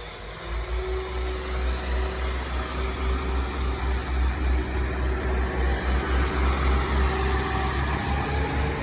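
Class 172 Turbostar diesel multiple unit pulling away from the platform, its diesel engines running under power with a low rumble that grows steadily louder.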